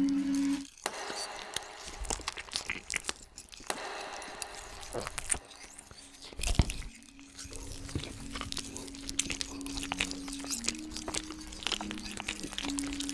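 Close-miked wet chewing and biting: dense mouth clicks, smacks and crunches of food being eaten with an open mouth, with one sharp louder crunch a little past halfway. A low held drone sounds under the second half.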